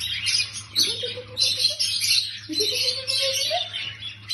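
Pet parrot chattering in rapid, scratchy chirps, with two drawn-out rising notes, one about a second in and one near the three-second mark.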